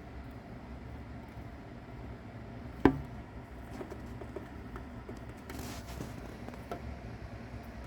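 A single sharp knock about three seconds in, over a steady low hum, with scattered faint clicks and a brief rustle near six seconds.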